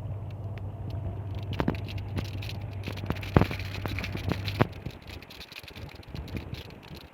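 Rain falling, an even hiss with many scattered drops clicking sharply on a hard surface. A steady low hum runs under it and stops about two-thirds of the way through.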